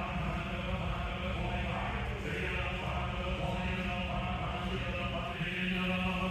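Auctioneer's rapid bid-calling chant over the loudspeakers, a steady run of sung-out numbers during the bidding on a lot.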